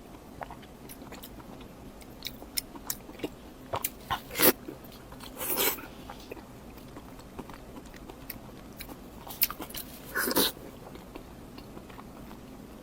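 Close-miked eating: scattered small mouth clicks and chewing, with three louder bites about four and a half, five and a half and ten seconds in.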